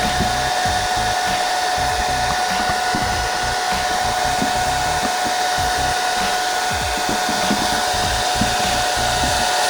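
Handheld hot-air blower running steadily: an even rush of air with a thin, constant whine.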